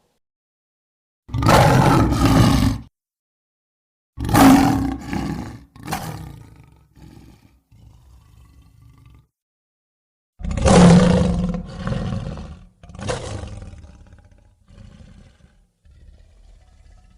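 Designed dinosaur-creature roar sound effect: a series of separate roars broken by silences, the first about a second in, then roars around four and ten seconds in that trail off into quieter, lower calls near the end.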